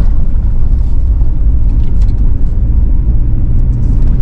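Steady low rumble of a car driving along a street: engine and tyre noise with no break or change.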